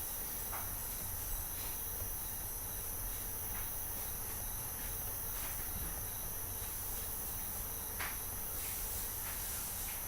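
Steady high-pitched hiss with a few faint clicks, the clearest about eight seconds in.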